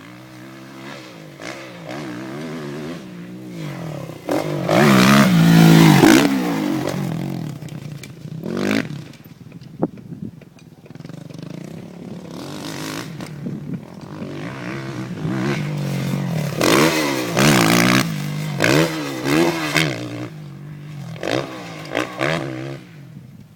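Kawasaki KX450F four-stroke single-cylinder motocross engine revving hard and backing off again and again as the bike is ridden around a track, loudest about five seconds in and again around seventeen seconds. A single sharp click comes about ten seconds in.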